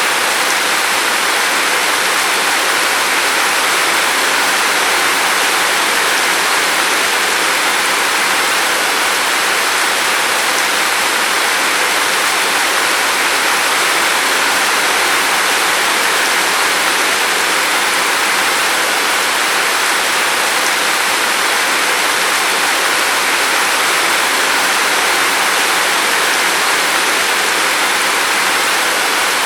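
Steady rain falling, an even hiss of water that neither swells nor fades, with no distinct drops or thunder standing out.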